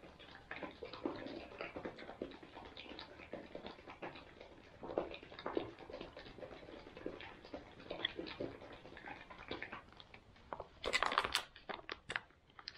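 Faint mouth sounds of tasting and chewing a lumpy freeze-dried banana smoothie, small scattered clicks and smacks. About eleven seconds in, a brief burst of crinkling as the smoothie pouch is handled.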